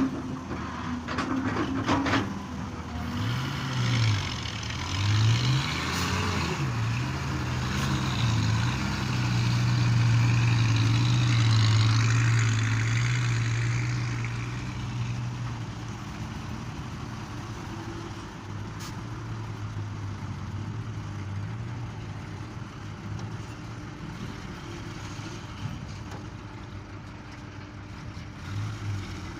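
Heavy diesel engine of earthmoving machinery working under load, its pitch rising and falling several times, then holding loudest for a few seconds before easing off. A hiss runs through the first half, and a few sharp knocks come in the first two seconds.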